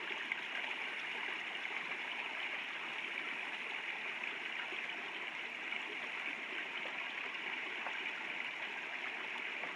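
Steady rush of a river flowing over stones, unchanging.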